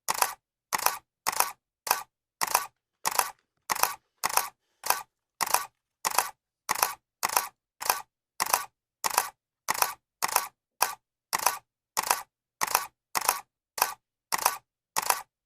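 Camera shutter clicking over and over at an even pace, a little under two clicks a second, each click a quick double snap with silence between.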